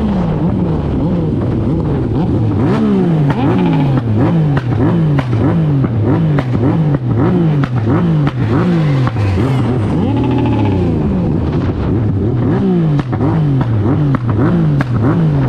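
Motorcycle engines being revved over and over, the pitch climbing and dropping about every half second, several engines overlapping.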